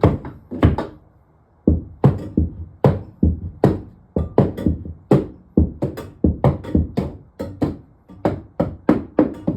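Rapid, repeated knocking strikes on a piece of sheetrock (drywall) being beaten loose, about three hits a second with a short pause about a second in.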